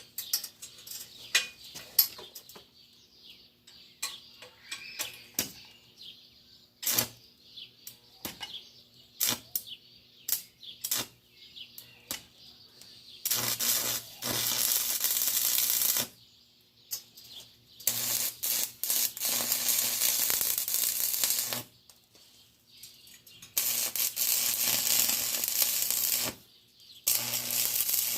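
Scattered sharp metal clicks and taps, then from about 13 seconds in an electric arc welder crackling and sizzling in four runs of a few seconds each, with a low hum under them, as a reinforcing scrap of steel is welded onto the hand truck.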